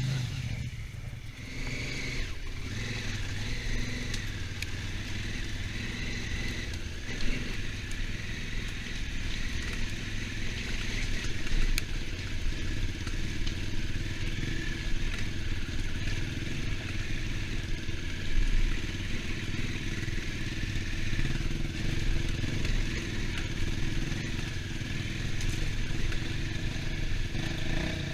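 Honda Africa Twin motorcycle engine running steadily at road speed, heard from on the bike, with a steady hiss over the engine hum.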